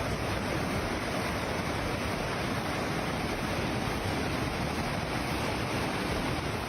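Steady, loud rush of fast-flowing floodwater, an even noise with no breaks.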